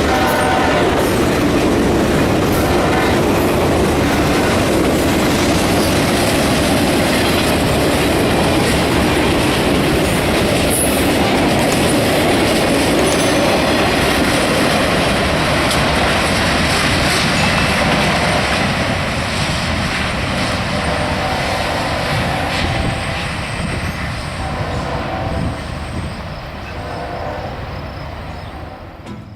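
A train's cars rolling past on the rails with wheel clatter, fading away over the last ten seconds or so.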